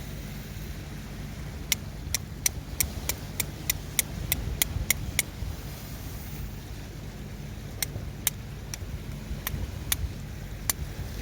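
Flint and steel being struck in quick, evenly spaced runs of about three sharp clicks a second, with a pause between the two runs, over a steady low rumble. The strikes are throwing sparks onto char punk wood.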